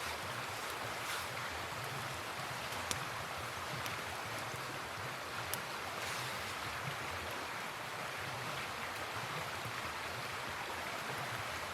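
Steady rushing of a river's flowing water, with two sharp clicks about three and five and a half seconds in.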